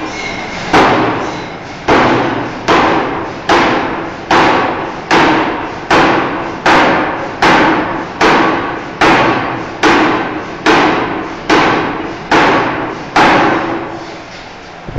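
Forging hammer striking a steel bar in a steady rhythm: about sixteen heavy blows a little under a second apart, each ringing briefly. The blows stop near the end.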